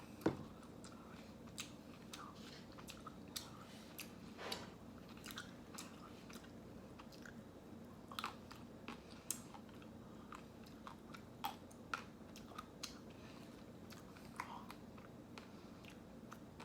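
Close-up mouth sounds of someone eating ice cream: soft chewing and biting, with scattered small wet clicks and light crunches, over a faint steady hum.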